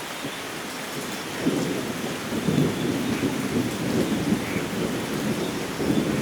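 Steady rain hissing, with a low thunder rumble that swells about a second and a half in and rolls on, rising again near the end.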